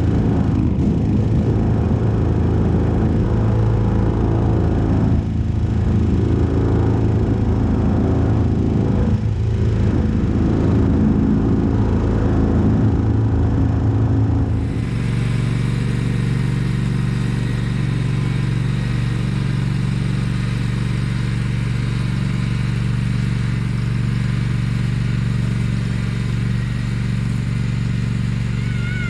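Vehicle engine running steadily while towing a loaded skid-mounted chicken tractor. About halfway through the sound changes abruptly to a smoother, more even engine hum.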